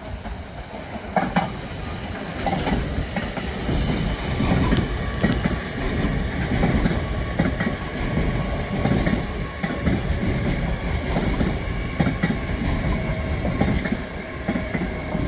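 LNER Class 801 Azuma electric train pulling into the platform, its wheels clattering rhythmically over the rail joints. It grows louder over the first few seconds, then stays steady, with a faint steady whine above.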